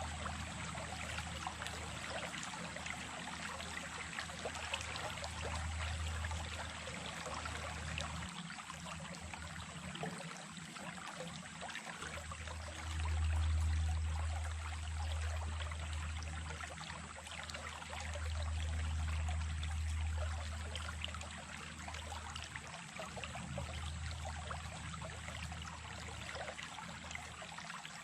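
Running water of a small stream flowing steadily, with a low rumble underneath that swells up a few times.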